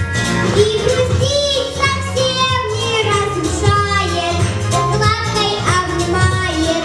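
A young girl singing solo over a backing track, holding notes with vibrato.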